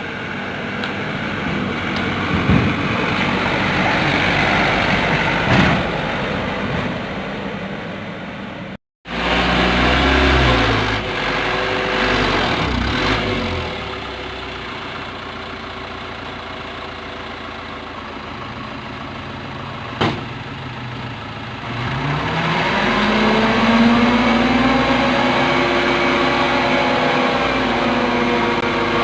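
Large truck engines running. After a sudden cut about nine seconds in, one engine runs steadily, then revs up about two-thirds of the way through, its pitch rising and holding higher.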